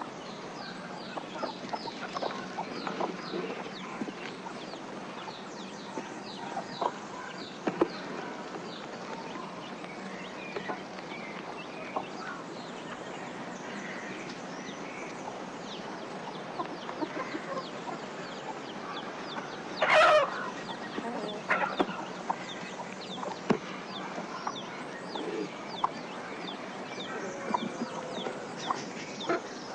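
Chickens clucking, with one louder squawk about twenty seconds in, over a background of many short, high chirps.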